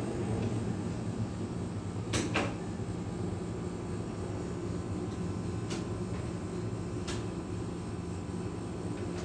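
Boeing 787-9 cabin noise during the takeoff climb: a steady low engine and airflow hum, with a few sharp knocks and clicks from cabin fittings, a quick pair of them about two seconds in and single ones later.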